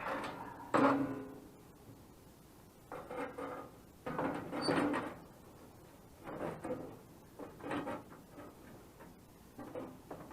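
Sheet steel being handled and scraped in about six short bursts, each under a second, some with a metallic ring.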